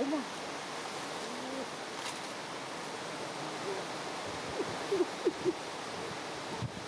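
A few short, low hoot-like animal calls over a steady outdoor hiss, with three quick calls close together about five seconds in.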